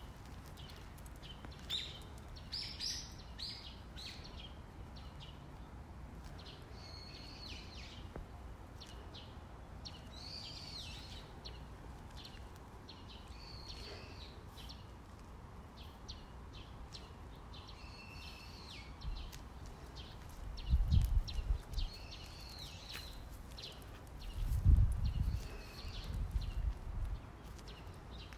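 A songbird calling over and over, a short arched phrase about every two seconds, over steady outdoor background noise. A few low rumbles come in twice near the end.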